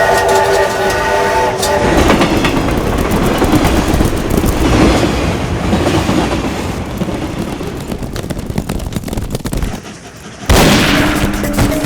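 Steam train whistle sounding a chord of several tones for about two seconds, then the train running at speed with a steady rumble and wheel clatter. A little before the end, a sudden loud hit and music begin.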